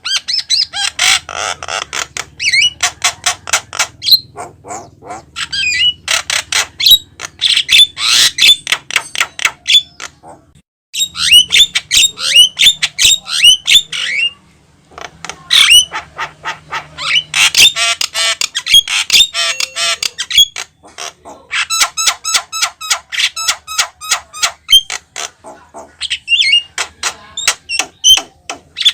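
Javan myna (jalak kebo) singing steadily: long, fast phrases of harsh chattering squawks, clicks and short whistles. The song breaks off briefly twice, about ten and fourteen seconds in.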